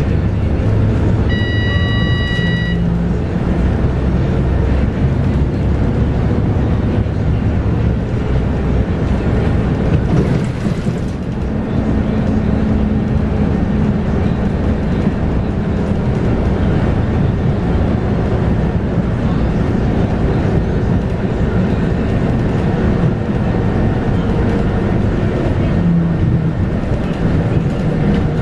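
Scania K230UB bus's 8.9-litre five-cylinder diesel with its ZF Ecomat automatic gearbox, running steadily under way, heard from inside the cabin with steady road noise. A brief electronic beep sounds about a second in, and a short hiss about ten seconds in.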